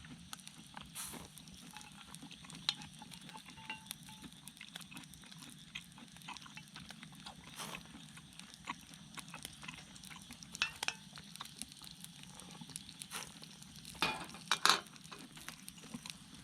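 Scattered light clicks and taps of small objects being handled, over a steady low hum, with a louder cluster of knocks near the end.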